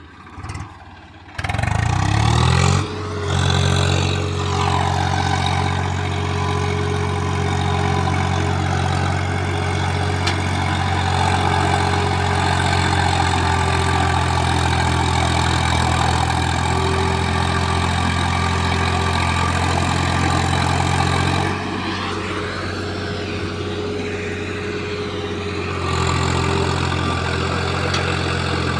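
Tractor's diesel engine revving up about two seconds in, then running steady at high revs. It eases off about three-quarters of the way through and picks up again near the end.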